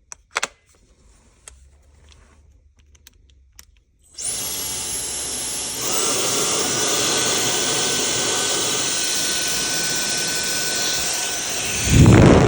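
A Bork hair dryer is handled with a few light clicks, then switched on about four seconds in. It runs with a steady rush of air and a high motor whine, which steps up to a stronger setting a second and a half later. Near the end a loud low rumble joins in.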